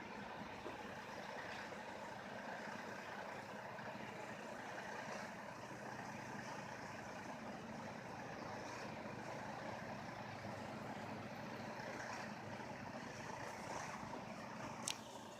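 An engine running steadily, a low even drone, with one sharp click near the end.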